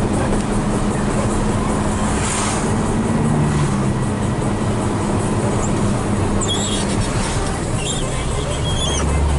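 Hino 500 FM320TI truck's diesel engine running under way, heard from inside the cab over steady road noise. Its pitch shifts about three seconds in and again near the end. There is a brief hiss about two seconds in.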